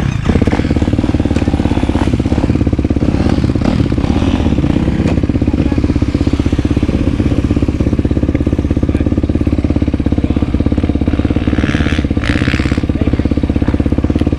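Yamaha YFZ450R quad's single-cylinder four-stroke engine running at a steady, low speed with an even pulsing note and no revving.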